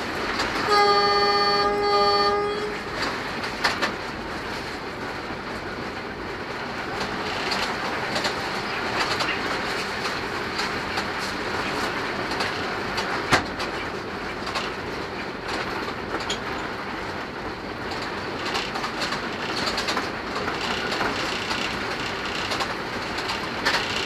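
Locomotive horn sounding one blast of about two seconds near the start, a warning at a level crossing. Then the train running on with steady wheel-on-rail noise and clatter, with a sharp click about thirteen seconds in.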